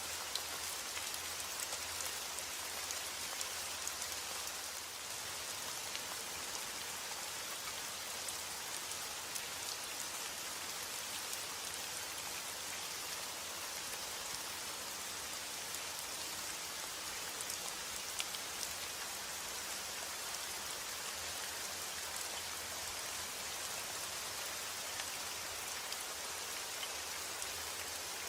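Steady rain falling, a constant hiss with many small drop ticks pattering on a surface.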